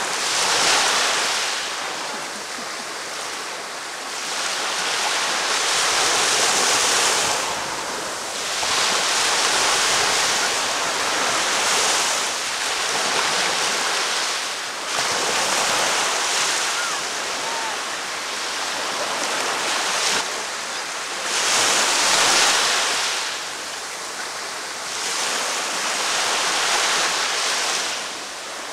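Ocean waves breaking and washing up on a beach, the surf hiss swelling and easing every few seconds.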